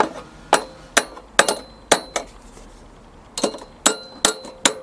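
A hammer tapping on a pressed-on metal part of a lawn mower: about a dozen sharp, irregular metallic taps, each ringing briefly. They come in two bunches with a pause of about a second in the middle.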